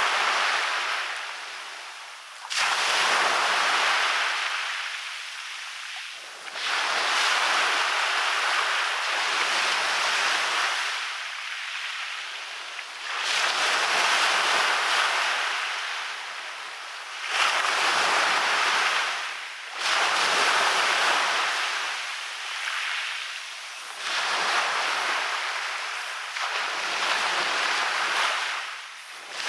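Waves breaking on a beach. Each wave comes in with a sudden rush, then fades, and a new one arrives every few seconds.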